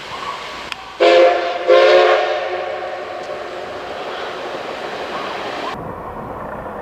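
Steam locomotive whistle of the SL Ginga (C58 239) sounding two blasts: a short one about a second in, then a longer one that fades away.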